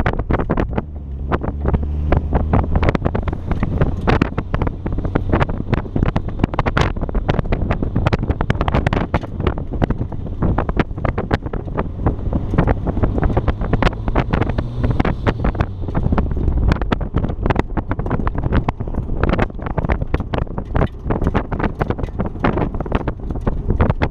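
Wind buffeting the microphone in constant irregular gusts, with a car engine running underneath.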